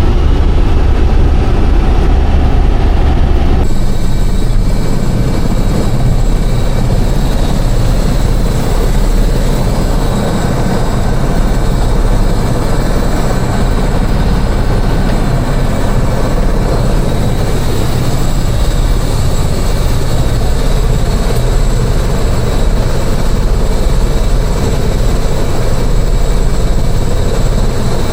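Helicopter in flight: loud, steady engine and rotor noise with a faint high whine, shifting abruptly in tone about three and a half seconds in.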